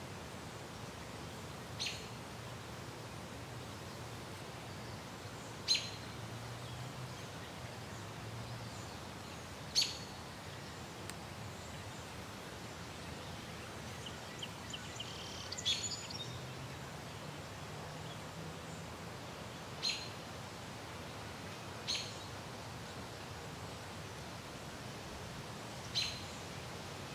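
Outdoor background hiss with a bird chirping every few seconds: about seven short single chirps, and a quick run of high notes around the middle.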